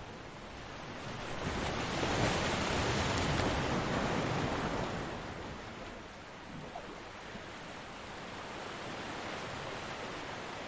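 Ocean surf: a wave breaks and washes in, swelling to its loudest about two seconds in and ebbing away by about six seconds, leaving a steadier lower wash.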